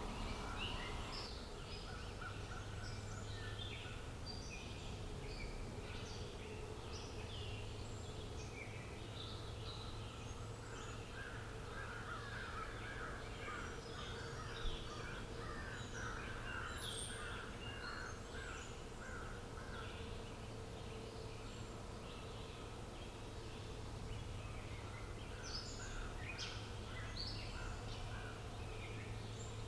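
Several small birds chirping and calling in short overlapping notes, with a run of fast repeated notes in the middle, over a steady low hum of outdoor ambience.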